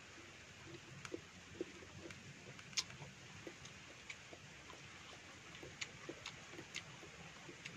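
Faint mouth sounds of eating fruit: soft chewing with irregular wet clicks and lip smacks, a few sharper clicks scattered through.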